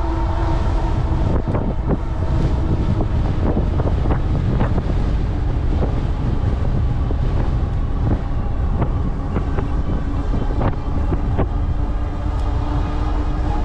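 Strong headwind buffeting the microphone of a moving e-bike, a steady low rumble. A faint steady whine weakens in the middle and comes back near the end.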